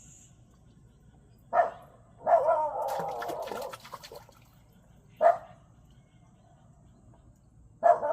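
A dog barking: single sharp barks about one and a half, five and eight seconds in, and a longer run of barking from about two to four seconds in.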